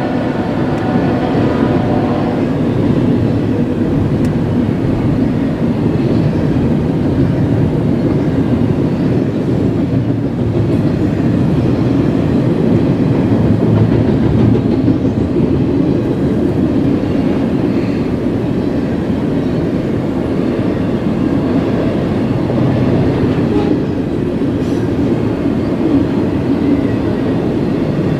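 Train rolling past at close range: a steady rumble and rattle of wheels on rail throughout. The train's horn, sounding just before, tails off about two seconds in.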